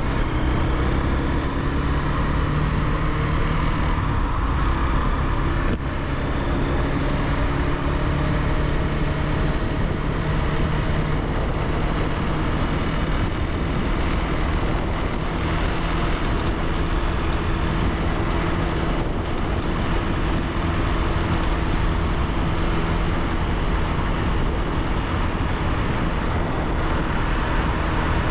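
Honda CBR300R's single-cylinder engine running steadily while the bike is ridden, its note holding a nearly constant pitch over a steady rush of noise.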